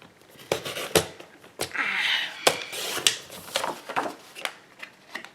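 Cardstock being handled at a paper trimmer: a string of sharp taps and knocks, with a brief scraping slide about two seconds in.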